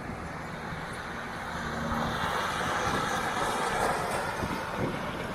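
Motor vehicle running, with a steady low engine hum under road noise that swells through the middle and eases off near the end.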